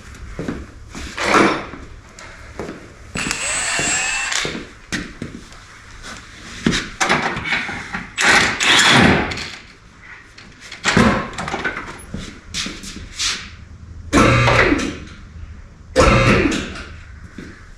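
Garage work under a car: a string of metal clanks and knocks of varying loudness, with about two seconds of steady hissing noise a few seconds in.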